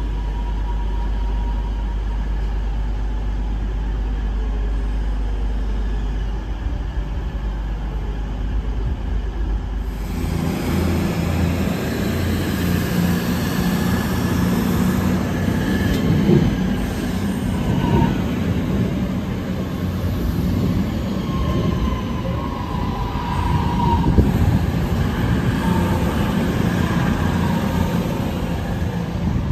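A train running through a station: a deep rumble, then about ten seconds in a sudden switch to louder rolling noise with knocks from the wheels and brief high wheel squeals.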